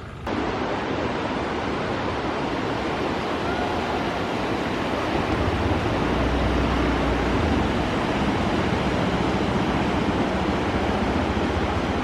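A loud, steady rushing noise that starts abruptly and holds level throughout.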